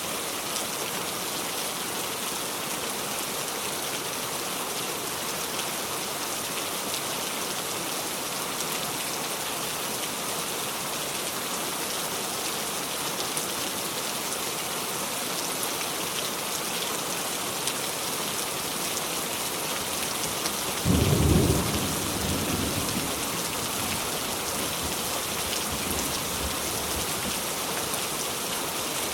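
Steady heavy rain, an even hiss of falling drops. About two-thirds of the way through comes a brief low boom, the loudest moment, trailing off in a low rumble over a few seconds.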